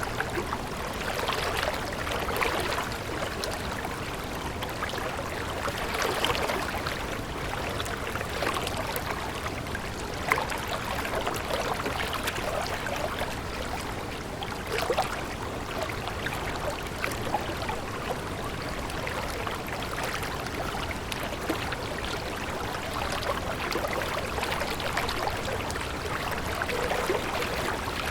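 Water of a small stream running over rocks, a steady babble with many small gurgles and splashes.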